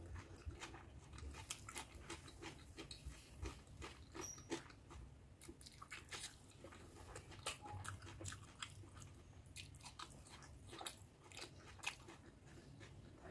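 A person chewing a mouthful of rice and mutton curry close to the microphone: irregular soft clicks and smacks of the mouth, several a second.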